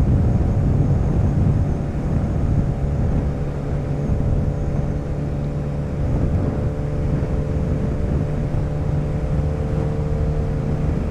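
Motorcycle engine running at a steady cruising speed, with a constant drone and the rumble of road and wind.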